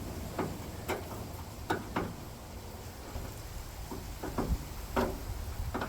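Irregular light clicks and knocks, about eight of them, as metal hand tools such as wrenches are handled and worked on bolts, over a low steady rumble.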